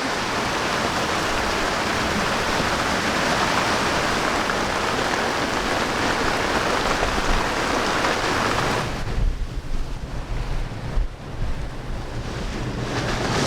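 Steady hiss of rain and wind on a sailing yacht at sea. About nine seconds in, the hiss drops away and gusty wind rumbling on the microphone takes over.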